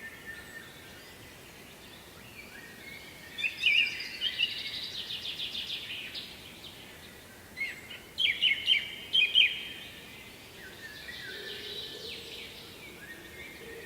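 Songbirds singing: quick trilled phrases of high chirps, with two louder bursts of song about three and a half seconds in and again about eight seconds in, over a faint steady background hiss.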